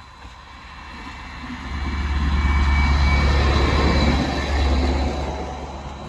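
Arriving train passing close by: a low rumble and rush that swells over about two seconds, holds loudest in the middle, then fades, with a faint high squeal near the peak.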